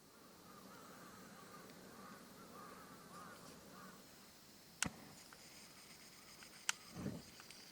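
Faint harsh bird calls for the first few seconds, then two sharp clicks a couple of seconds apart and a short low thump just after the second.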